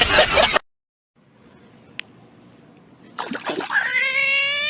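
A cat yowling: one long drawn-out cry that begins about three seconds in and rises in pitch as it builds. A short stretch of talk at the very start is cut off.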